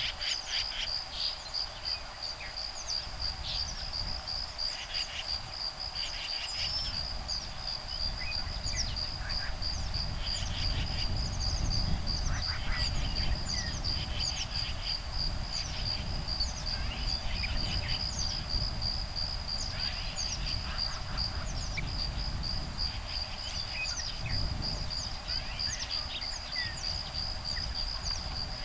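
Steady high pulsing insect trill under many short bird calls and chirps, among them woodpeckers, adults and nestlings, calling back and forth. A low rumble of breeze on the microphone swells in the middle and again near the end.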